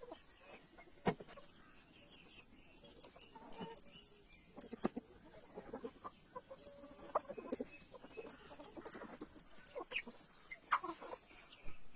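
Chickens clucking in short, scattered calls, with a few sharp clicks among them.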